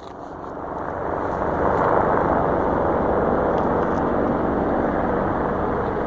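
BMW 335i's N54 twin-turbo inline-six idling through a catless Cobb aftermarket exhaust, a steady rough drone that builds over the first couple of seconds and then holds.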